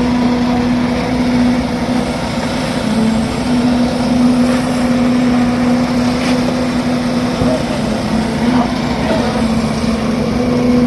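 An engine running steadily with a constant hum, with no change in speed.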